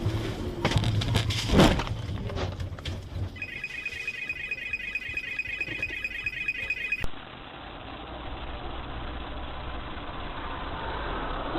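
A car collision: a cluster of impacts with one loud bang about a second and a half in. Then a steady high electronic tone runs for a few seconds. After a sudden cut comes steady engine and road noise of a car driving.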